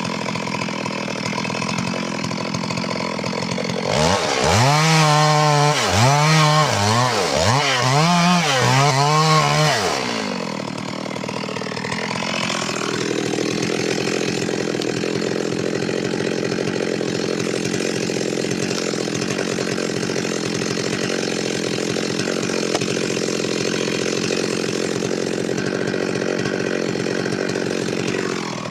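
Stihl MS 382 two-stroke chainsaw running steadily, then revved up and down about five times in quick succession, then held at a steady high speed while it cuts wood, dropping off near the end.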